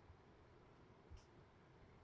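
Near silence: faint room tone, with one faint click a little over halfway through.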